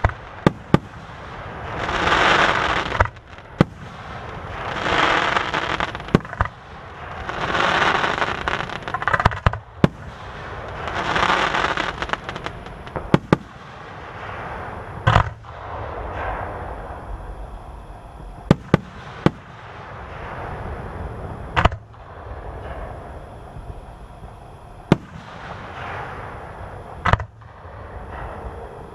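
Aerial fireworks display: sharp bangs of shells bursting, often several in quick succession, between swells of hissing noise lasting a second or two each.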